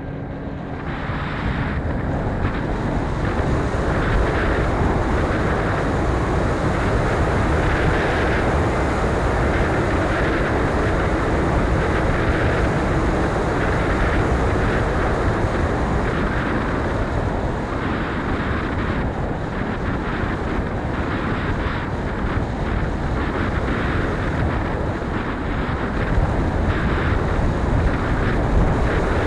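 Strong wind buffeting the microphone: a steady, loud rushing and rumbling noise that builds over the first couple of seconds.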